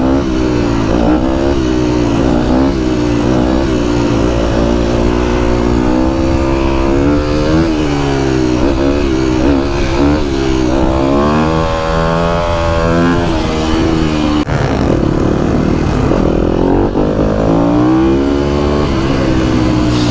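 Motorbike engines revving up and down over and over, with the pitch climbing and falling repeatedly. The sound breaks off abruptly about fourteen seconds in and picks up again at a lower pitch.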